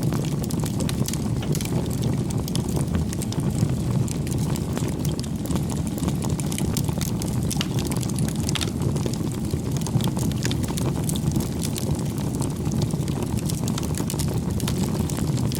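Wood fire burning: a steady low rush of flames with frequent sharp crackles and pops throughout.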